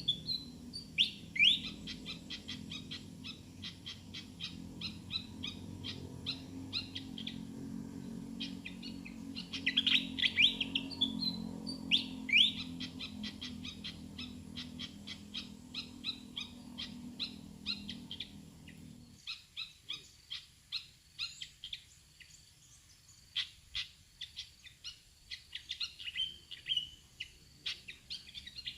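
Pied fantail chirping in repeated bursts of quick, squeaky notes, the call that trappers use to lure the bird. A low steady hum sits underneath and cuts off about two-thirds of the way through.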